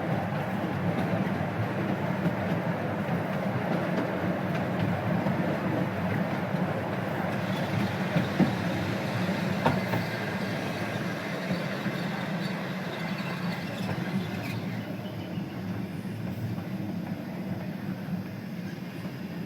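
12-inch gauge steam locomotive running with its train, a steady rumble of the train on the track. A couple of sharp clicks come about halfway through, and the sound eases slightly near the end.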